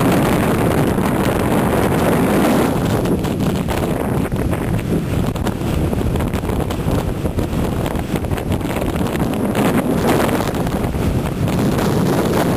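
Stormy sea: waves and surf washing in, with strong wind buffeting the microphone. The rush swells louder at the start and again about ten seconds in.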